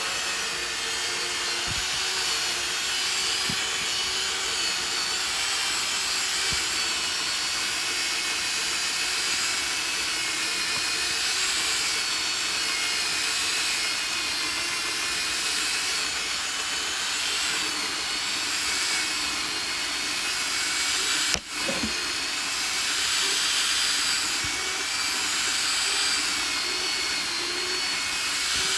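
Chainsaw running steadily while cutting through firewood logs, its pitch wavering slightly under load. A brief sharp click and dropout about two-thirds of the way through.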